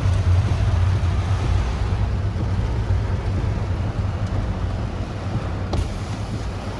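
Typhoon wind and heavy rain, with the wind rumbling on the microphone; the rumble is heaviest at first and eases slowly.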